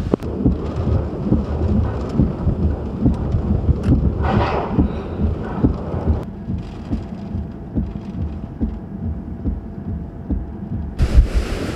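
Hurricane-force wind gusting and buffeting the microphone with a low rumble, with rain hiss; a stronger gust of hissing noise comes about four seconds in and again near the end.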